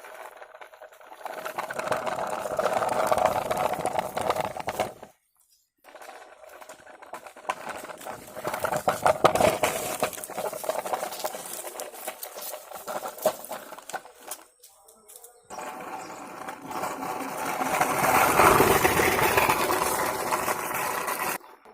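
A battery-powered toy vehicle's small electric motor and plastic gears whirring and rattling in three long runs, stopping briefly about five seconds in and again near fifteen seconds.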